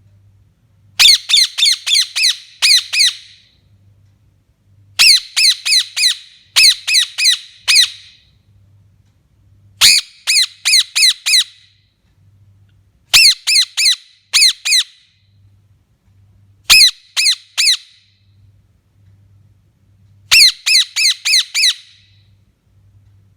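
Pet parrot squawking in repeated bouts every few seconds, each bout a rapid run of four to six harsh calls, every call a quick downward sweep.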